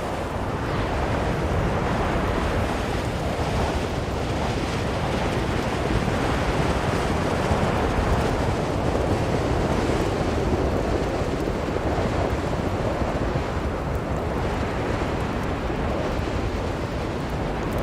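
Strong blizzard wind blowing steadily in a low, even rush that swells and eases slowly.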